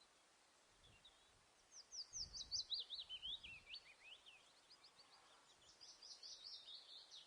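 A songbird singing a fast run of high, quickly falling chirps, about two seconds long and starting near two seconds in, then a second, quieter run near the end, over faint outdoor hiss.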